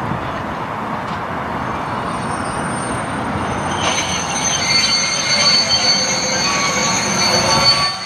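Freight train of steel wagons rolling past with a steady rumble, joined about four seconds in by high-pitched wheel squeal.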